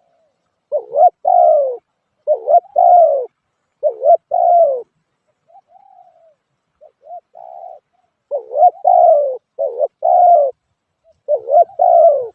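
Spotted dove cooing: repeated phrases of two or three hollow coos with short pauses between them, a few softer phrases in the middle.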